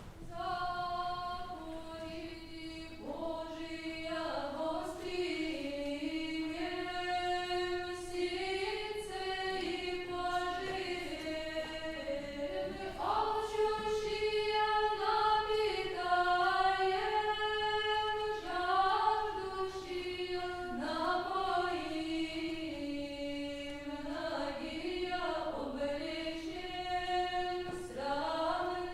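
Choir singing a cappella in unison, a slow chant-like melody moving in small steps, starting at the very beginning.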